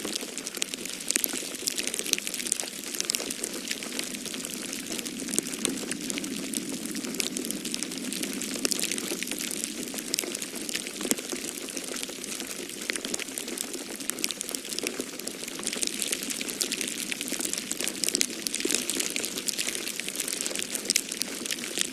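Wood fire crackling in a fireplace: dense small pops and snaps over a steady hiss.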